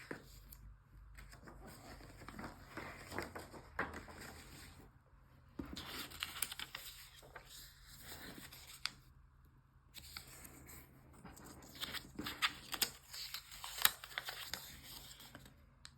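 Sheet of origami paper being handled and folded by hand: irregular soft rustling and crinkling, with sharp little creasing ticks that come more often near the end.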